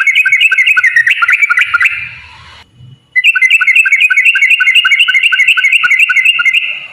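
Yellow-vented bulbul (trucukan) singing a long rapid run of repeated chattering notes, about six a second. It breaks off briefly about two and a half seconds in, then starts a second long run.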